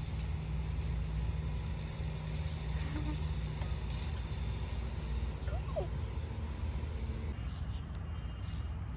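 A steady engine-like hum over a low rumble that cuts off about seven seconds in, with a couple of faint brief voice sounds.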